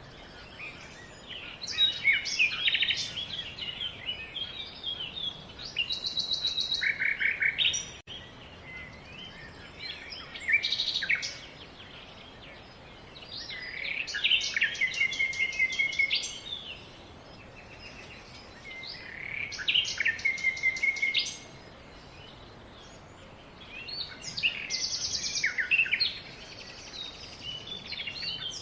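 A songbird singing, repeating song phrases of two to three seconds that include fast trills, with pauses of a few seconds between them, over a faint steady background hiss.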